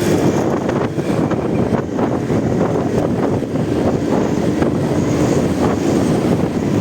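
Motorcycle running at a steady speed, its engine hum mixed with wind buffeting the rider's microphone.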